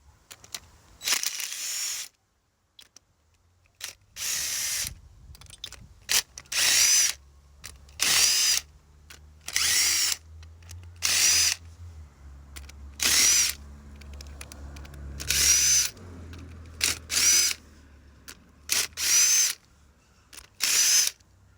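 Power drill-type tool run in about a dozen short bursts of under a second each, its motor spinning up and down with each, as bolts are run out to take the cylinder head off a Kubota engine. A low hum sits underneath through much of it.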